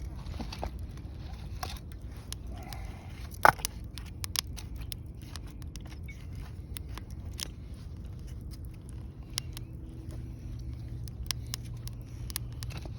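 Wood fire crackling in a BUNDOK Lotus fire pit: scattered small pops and snaps, with one sharper pop about three and a half seconds in, over a low steady rumble.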